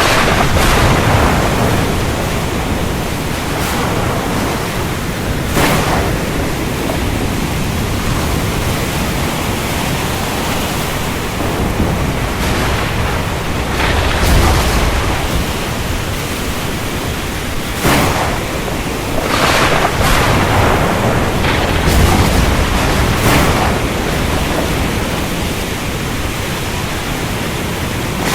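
Steady rain hiss through a thunderstorm, with low thunder rumbles swelling a few times and several sharp cracks scattered through.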